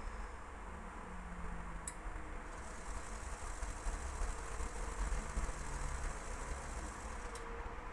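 Indesit WIL82 front-loading washing machine spinning: a steady motor and drum hum with low rumble, with a thin high hiss that comes in a couple of seconds in and two faint ticks.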